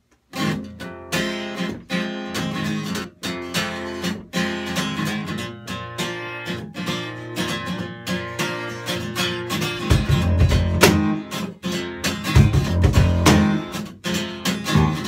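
Live band instrumental intro led by strummed acoustic guitar chords. Deeper low notes swell in about ten seconds in.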